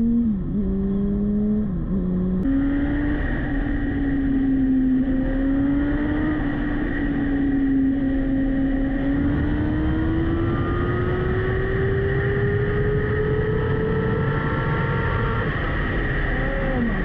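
Yamaha R1 inline-four engine running under way: the pitch dips briefly twice in the first couple of seconds as gears change, then holds fairly steady and climbs slowly as the bike speeds up, with quick drops in pitch near the end.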